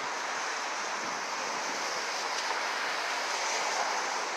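Steady, even rushing noise of city street traffic.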